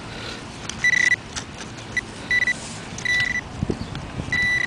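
A metal detector giving short, high beeps, about four in a few seconds, over a target that is still in the dug hole. A few brief knocks of digging in rocky soil fall between the beeps.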